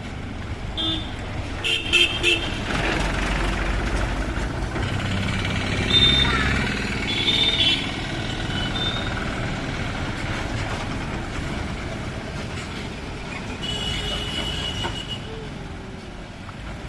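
A loaded Mahindra tractor's engine runs as it passes along a road, heaviest in the first half. Short horn toots sound several times over it.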